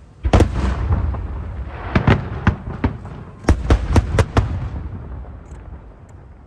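Aerial firework shells bursting overhead: one heavy boom, then a quick string of about nine sharp bangs a second or two later, over a low rumble that dies away near the end.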